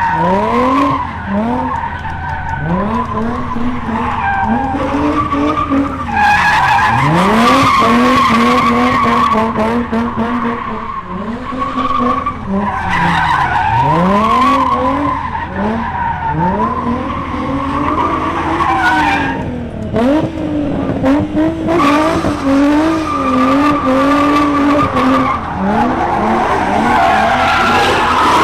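V8 muscle car doing a burnout or donuts: the engine revs up and down in repeated swells while the tyres squeal steadily.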